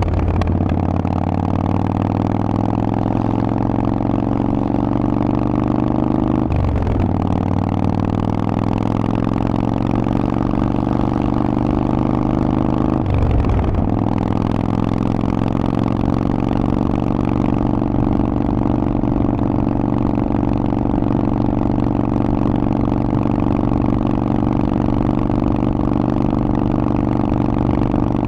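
Harley-Davidson Forty-Eight's air-cooled 1200 cc V-twin running through a Vance & Hines exhaust under way. The engine note climbs slowly, drops off briefly twice (about six and thirteen seconds in) as it shifts up, then holds nearly steady.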